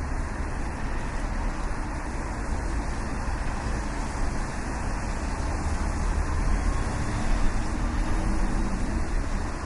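Main-street ambience: a steady rumble of road traffic, with low engine hum from passing vehicles.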